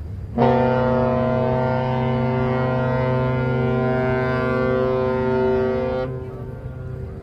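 Cruise ship MS Amadea's horn sounding one long, steady, deep blast of about five and a half seconds, starting half a second in and cutting off sharply. It is the ship's departure signal as it leaves port.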